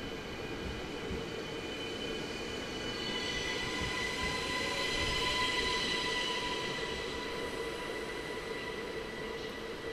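ÖBB electric train running through the station, a low rumble with a high steady whine that swells and is loudest about five seconds in.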